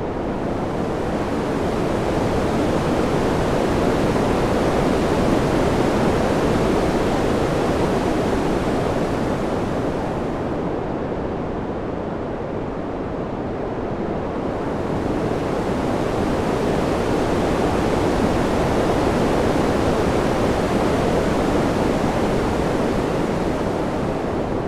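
Wind: a steady rushing noise that swells, eases and dulls about ten seconds in, swells again, and eases near the end.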